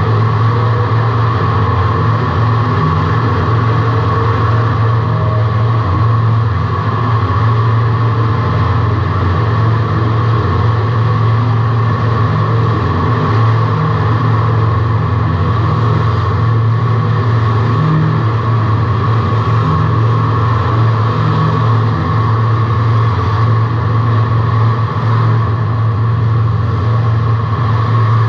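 Race car's engine running hard and steady, heard from inside the cabin as a loud, unbroken drone with little change in pitch.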